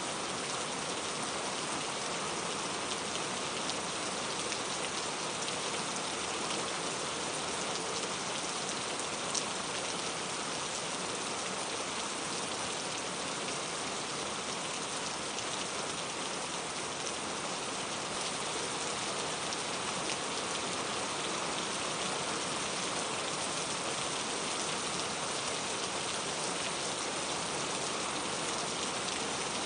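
Steady rain falling, an even hiss with scattered faint drop ticks on surfaces.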